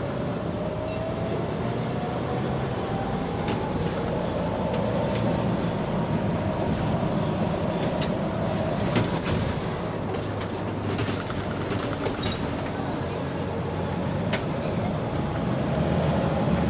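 Interior of a single-decker bus under way: the engine hums steadily while a drivetrain whine rises in pitch as the bus picks up speed, then levels off. Occasional sharp rattles and clicks come from the bodywork.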